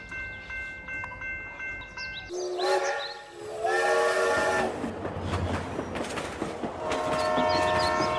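Multi-tone train horn sounding in long chords. Two blasts in the middle rise in pitch as they start. Short high chirps repeat throughout.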